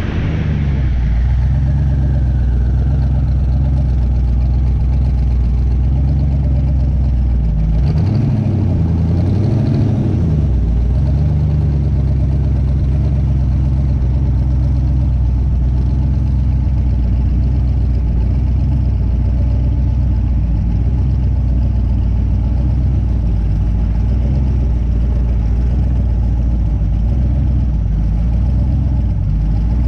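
Twin-turbo LS V8 in a Camaro idling steadily, with a brief rise and fall in engine speed about eight seconds in.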